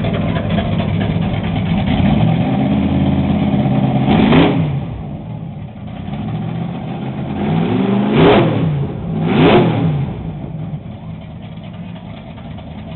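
Chevrolet 348 W-series V8 drag engine being revved: one rise to a peak about four seconds in, then two quick blips about a second apart, dropping back to idle.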